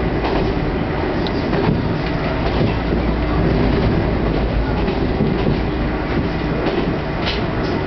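Echizen Railway electric train running along the track, heard from inside the front of the car: a steady running rumble with occasional wheel clicks over the rails.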